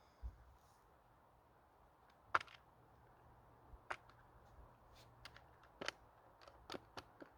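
A scattering of about ten sharp, irregular clicks and snaps, the loudest a little over two seconds in, after a soft low thud at the start.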